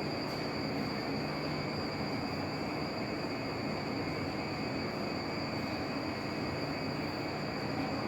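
Steady hum and hiss of a subway platform with a stopped Marunouchi Line train standing idle, its equipment running, with a constant high whine over a low hum.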